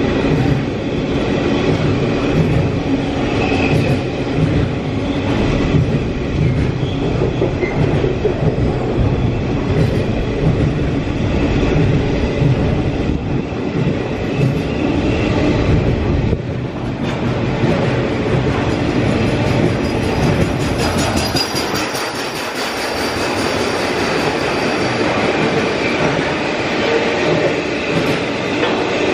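Container freight train's wagons rolling past close by: a steady loud rumble with the clatter of wheels over the rails.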